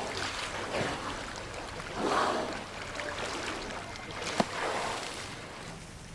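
Water splashing and sloshing around a boat on the open sea, with wind, and one sharp knock about four seconds in.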